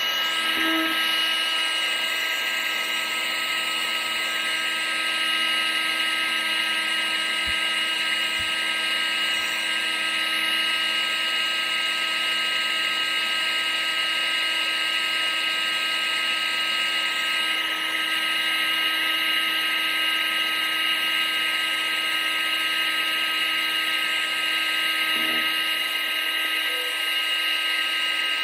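Household appliance's electric motor running steadily, a constant high whine over an even hiss of moving air, played as white noise.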